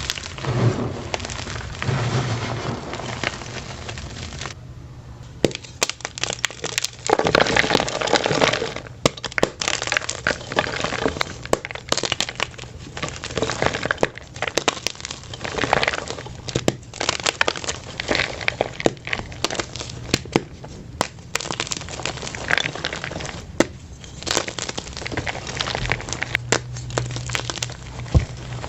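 Blocks of plain white gym chalk crushed and crumbled by hand: a dense run of crunches and sharp crackles, with a brief pause about five seconds in.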